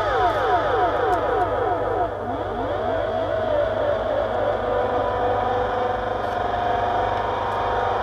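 Harsh electronic noise from a chain of delay, filter and EQ effects pedals through a small Danelectro Honeytone amp. Steady feedback tones break into a cascade of many falling pitch glides over the first few seconds, then settle into new steady drones over a constant low hum.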